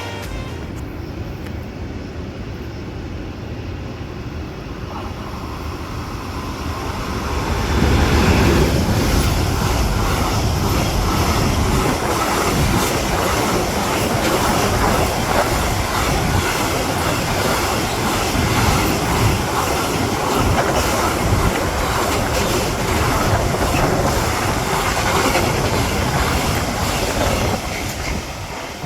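A train approaching and passing close by, its wheels running over the rails. It builds over the first eight seconds, then stays loud and steady.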